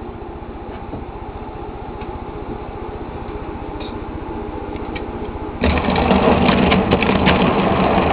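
Model train running on the layout: the locomotive's small electric motor buzzing with the wheels clattering along the track. The sound jumps suddenly louder about five and a half seconds in, with a few clicks.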